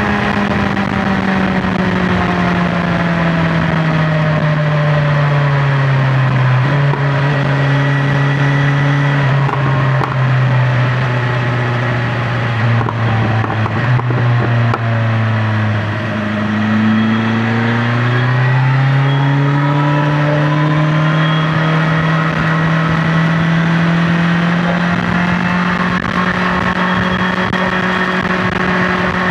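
BMW S1000XR's inline-four engine at highway speed, heard from the rider's seat. The engine note sinks slowly over about fifteen seconds as the bike eases off, then climbs again and holds steady, with wind and road noise throughout.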